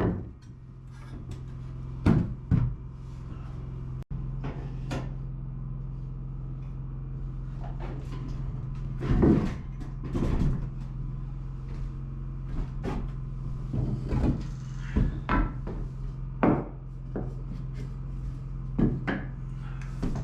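Wooden 2x4 boards knocking and clattering as they are handled and set down, about a dozen separate knocks over a steady low hum.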